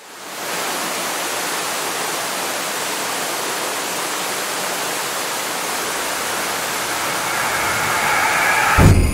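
Steady rush of a waterfall, fading in from silence at the start. Near the end the rush swells and is cut by a single deep thump.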